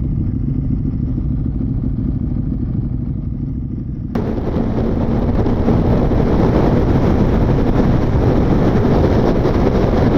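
A motorcycle on the move, heard from the rider's position: a low engine rumble, then about four seconds in the sound suddenly opens up into loud wind and road noise over the engine, building slightly as the ride goes on.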